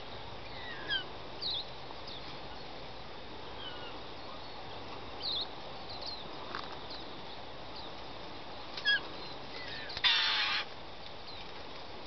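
A flock of black birds calling: scattered short chirps and whistles, a louder call about nine seconds in, then a harsh screech lasting about half a second near the end.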